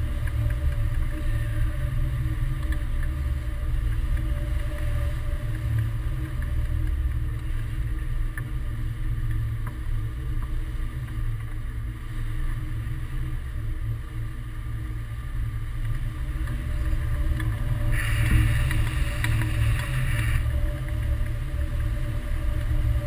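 Wind rushing over the microphone during a hang-glider flight: a steady, heavy low rumble, with a louder stretch of hiss about eighteen seconds in that lasts a couple of seconds.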